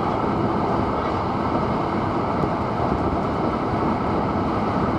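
Hankyu 9300 series electric train running at speed, heard from inside the front car: a steady rumble of wheels on rail with running noise.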